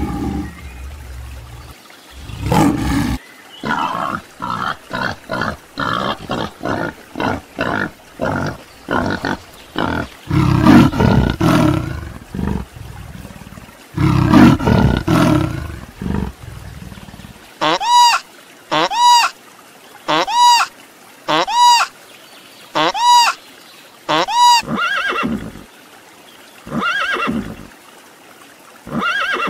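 Lion roaring, the call tailing off into a run of short rhythmic grunts, then two louder low calls. From about halfway on, a different animal gives a regular series of short, high, arching calls, about one a second.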